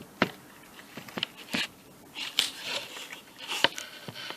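Metal parts of a dismantled air compressor pump handled by hand: a handful of separate sharp clicks and clinks with brief light scraping between them.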